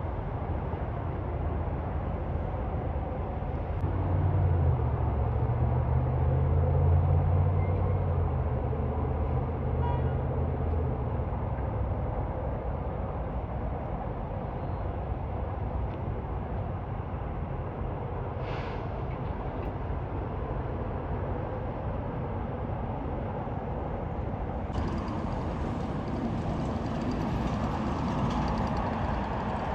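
Road traffic noise with a heavy truck's engine drone swelling as it passes about four seconds in and fading by about eleven seconds.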